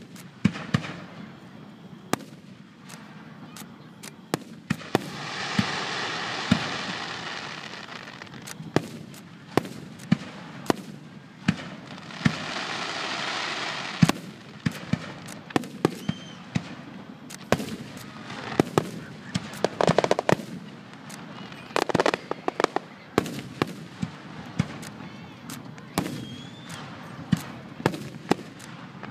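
Aerial firework shells bursting in a fireworks finale: a rapid, irregular run of sharp booms and bangs, with two stretches of dense hissing noise lasting a few seconds each.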